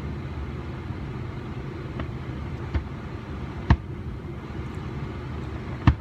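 Distant fireworks going off: four sharp bangs, the loudest about a third of the way in and just before the end, over a steady low rumble.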